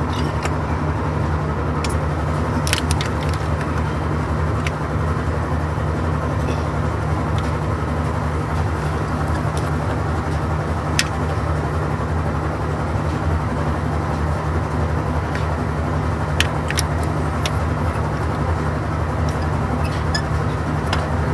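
Steady low background hum, with a few sharp clicks about 3, 11 and 16 seconds in.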